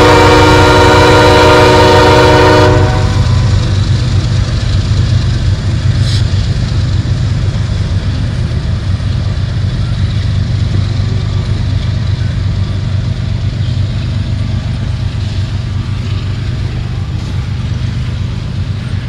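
Diesel freight locomotive horn holding a long chord that cuts off about three seconds in. After it comes the steady low rumble of the locomotives working hard and of loaded coal hopper cars rolling past, fading slowly.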